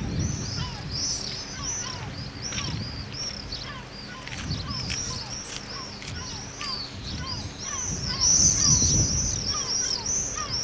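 Birds chirping in quick succession, many short, high, arched notes, over a low rumbling noise that swells and grows loudest near the end.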